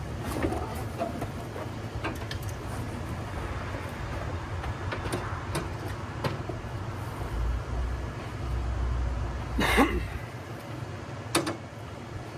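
Clunks and knocks of heavy equipment being handled over a steady low rumble that stops about ten seconds in. A loud short scrape or squeak comes near ten seconds, and another sharp knock follows a second later.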